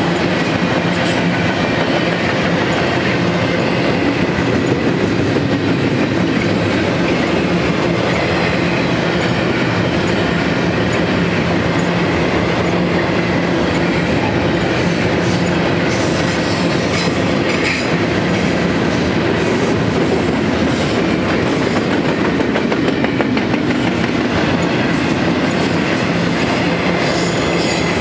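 Double-stack container train of well cars rolling past: a steady rumble and clatter of steel wheels on the rails.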